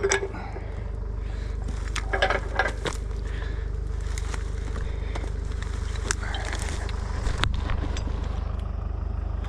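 Kobelco SK100 excavator's diesel engine running steadily, with scattered sharp knocks and cracks from the machine working over brush and logs.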